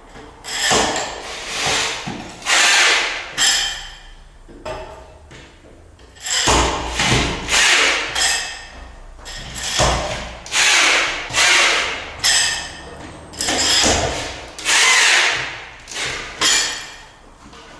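Powerful drill with a wrench socket tightening anchor bolts into a concrete floor slab, run in about a dozen short bursts of a second or less with pauses between.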